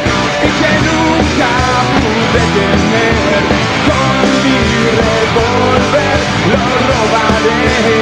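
A punk rock band playing live in an instrumental passage with no singing: loud distorted electric guitar, bass and drums, with a guitar line bending up and down in pitch over the band.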